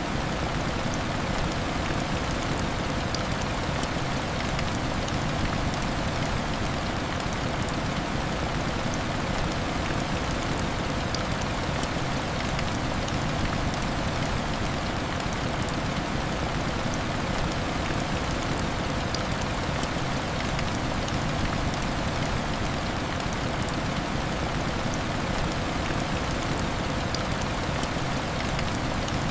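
Heavy rain falling steadily, a dense even hiss with small scattered ticks of drops.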